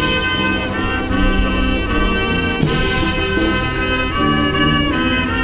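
Brass band playing sustained chords in a slow, stately piece, with a cymbal crash about halfway through; typical of a military band at a welcoming ceremony.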